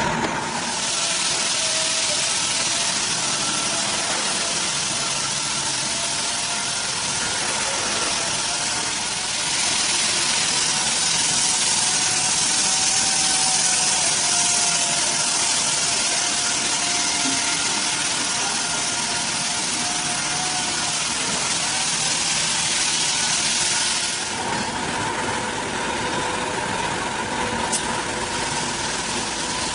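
Chainsaw engine running at a steady high speed, with a hissier, harsher stretch through the middle and a change in tone a few seconds before the end.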